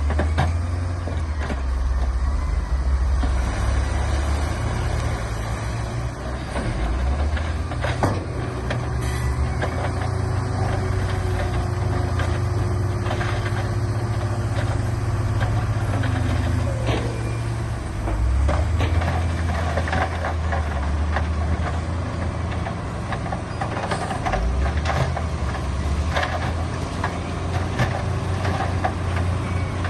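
Heavy diesel earthmoving machinery running, with a deep engine drone that shifts in pitch and load several times. Scattered knocks and clatters run through it.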